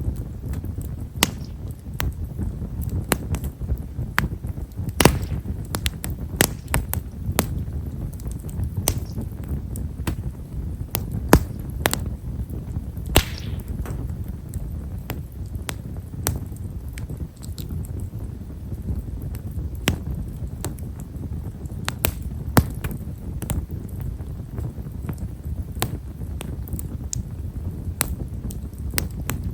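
Himeshara (Stewartia monadelpha) firewood burning in a bonfire, crackling with frequent small, fine pops over the low rush of the flames. A few pops are sharper, and one a little before halfway trails into a brief hiss.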